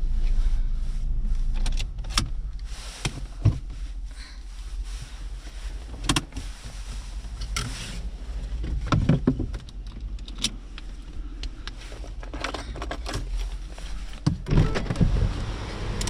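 Car noise with a steady low rumble that drops in level about two seconds in, as if the car stops or the engine is switched off. After that come a dozen scattered clicks and knocks of handling in and around the car.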